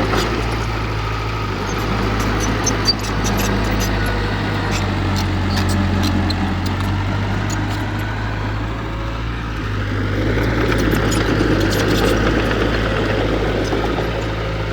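Heavy diesel earthmoving machinery running steadily, with light clicks and rattles on top.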